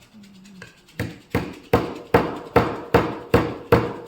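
Steady hammering in the workshop: about eight even blows, roughly two and a half a second, starting about a second in, each with a short ring.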